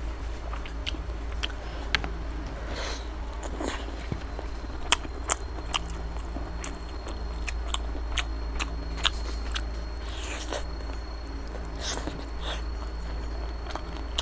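Close-miked eating by mouth: wet chewing, biting and lip smacks, with many sharp mouth clicks, as chicken leg meat with rice and gravy is eaten by hand.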